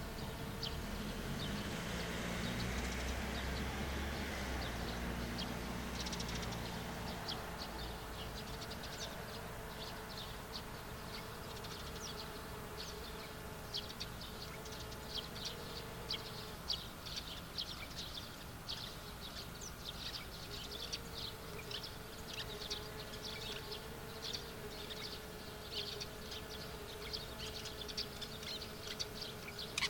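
Rural field ambience: a steady, slightly wavering insect buzz, with a low engine rumble fading out over the first several seconds and small birds chirping busily through the second half.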